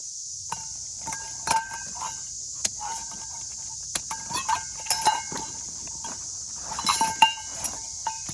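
Metal camp gear being handled: scattered clinks, taps and short ringing notes of metal parts knocking together, over a steady high hiss.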